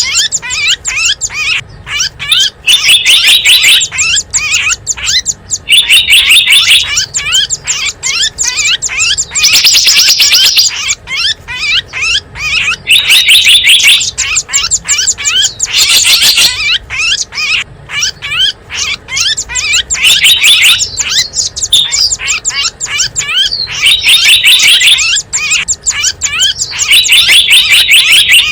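Small birds chirping rapidly and high, with a loud dense burst of twittering every three to four seconds: a bird-lure call recording played to attract small wild birds.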